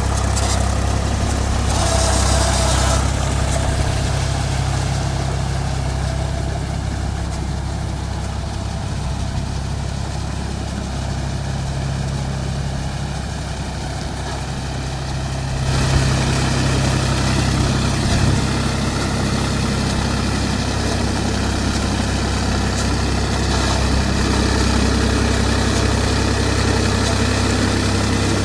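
Mahindra 275 DI TU tractor's three-cylinder diesel engine running steadily at a low, even pitch, with a brief knock about sixteen seconds in.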